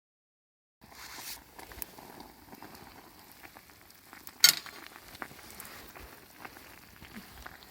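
Sizzling and crackling over a wood fire in a fire pit, with scattered small pops and one loud sharp pop about four and a half seconds in. The sound starts just under a second in.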